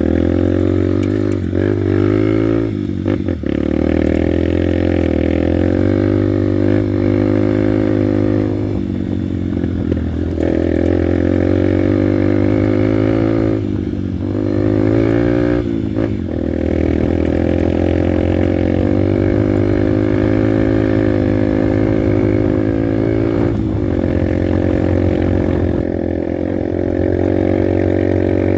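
Honda Bros 150's single-cylinder four-stroke engine running as the motorcycle is ridden, its note dipping and climbing back several times as the throttle is eased and opened again.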